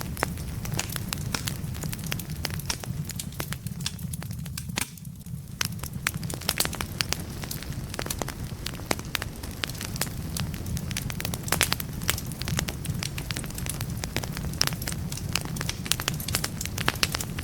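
Wood logs burning in a fireplace: dense, irregular crackles and pops over a steady low rumble of the flames, with a brief lull about five seconds in.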